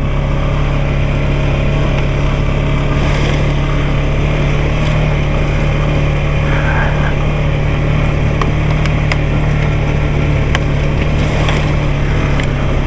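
Off-road vehicle engine running at a steady speed while riding, an even drone with a few light clicks and rattles over it.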